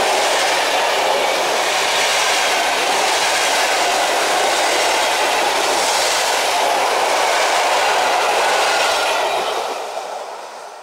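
Passenger coaches of a departing train rolling past close by, their steel wheels on the rails making a loud, steady rolling noise. The noise fades away about nine and a half seconds in as the last coach goes by.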